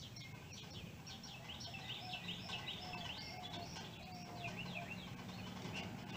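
Small songbirds chirping and twittering, in many quick, short down-slurred notes, with a few soft whistled notes about two to four seconds in. A faint, steady low hum runs underneath.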